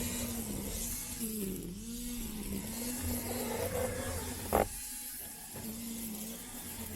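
Robot lawn mower's electric motor humming close up, its pitch dipping and recovering several times over a hiss of cutting. A single sharp knock about two-thirds of the way through, after which the hum briefly drops out.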